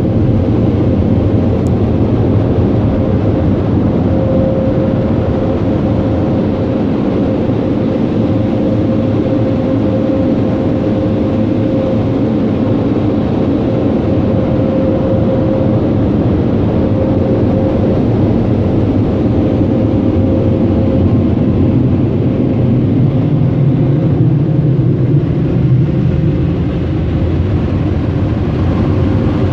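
Car wash blower dryers running, a loud steady rush of air heard from inside a minivan's cabin, with a constant hum that fades out about two-thirds of the way through.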